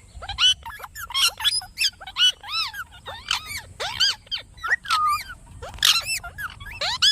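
Parrot calling in a rapid run of short arching whistles and chirps, broken by a few harsh screeches.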